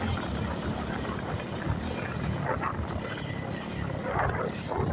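Motorcycle engine running steadily under way, a low rough rumble.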